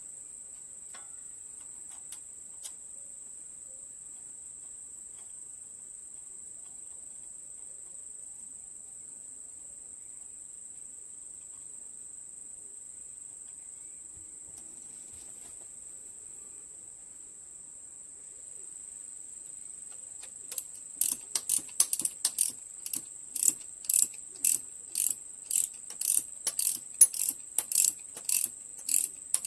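Ratchet wrench being worked in quick strokes, clicking about two to three times a second from about two-thirds of the way in, over a steady high-pitched whine.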